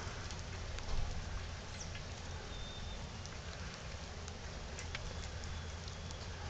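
Light rain falling, a soft steady patter with a few faint drop ticks.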